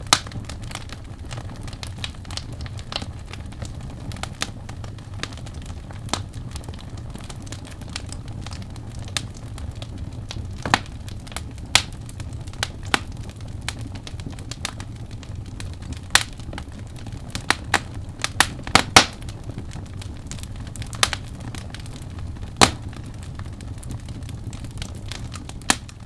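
Wood fire crackling: irregular sharp pops and snaps over a steady low rumble, with a run of louder pops a little past the middle.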